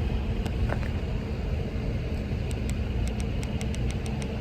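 Steady low outdoor rumble, with a rapid run of light, sharp clicks in the second half as a car key fob's buttons are pressed over and over; the remote is not unlocking the car, and its battery is taken to be dead.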